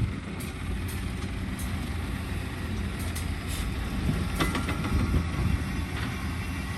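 Diesel engines of heavy earthmoving machinery (excavator and dump truck) running steadily, with a few short metallic clanks and a brief metallic squeal about four and a half seconds in.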